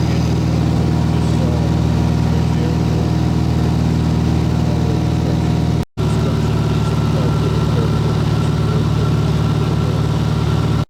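Steady drone of a small plane's piston engine and propeller heard inside the cabin, even in pitch and level. The sound drops out for an instant about six seconds in.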